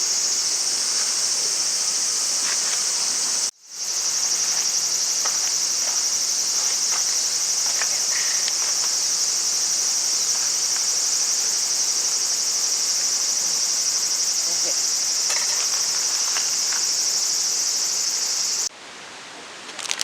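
Loud, steady, high-pitched chorus of summer insects. It drops out briefly about three and a half seconds in and cuts off abruptly near the end.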